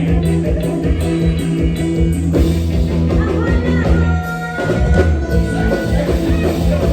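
Live band playing Isan toei la music: a steady bass and beat under a held low note, with a melody line sliding above it.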